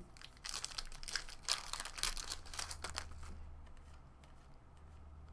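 Foil wrapper of a baseball card pack crinkling and tearing as the pack is opened: a dense run of crackles for about three seconds, then it dies down.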